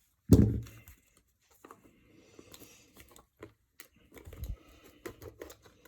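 A thump, then faint scattered crinkling, tearing and clicking as a sealed trading-card box and its packaging are handled and opened.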